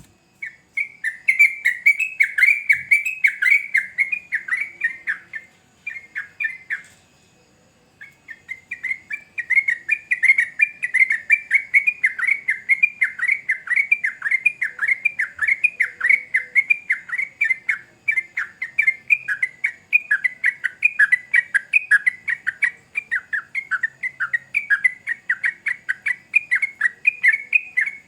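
Sooty-headed bulbul (trucukan) singing a long, rapid run of chattering notes, several a second. There is a short break about a quarter of the way in, after which the song runs on without stopping.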